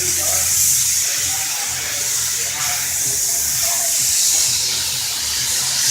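Steady high-pitched hiss, with faint distant voices and a low hum underneath.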